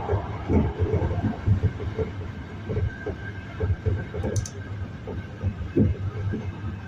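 Hankyu commuter train running between stations, heard from inside the carriage: a steady low rumble with irregular knocks from the wheels and a faint steady whine.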